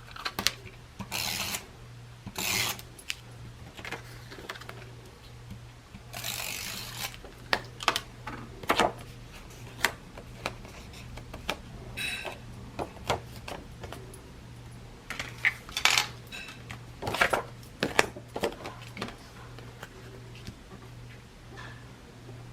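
Tape being pulled and pressed onto card stock, with paper and card being handled. There are short irregular scratchy rustles, the longest about six seconds in, over a faint steady hum.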